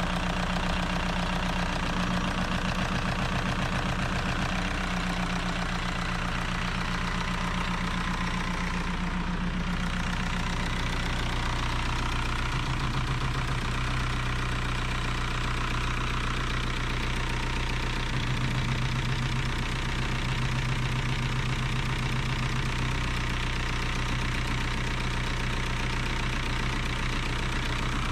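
VW Golf Mk4 TDI diesel engine idling with its diesel clatter, the idle speed shifting slightly a few times, running on a fuel filter freshly filled with diesel to keep air out of the system.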